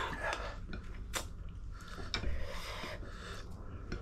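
Eating sounds: a breathy rush at the start, then quiet chewing of spicy noodles and prawns broken by a few short, sharp clicks.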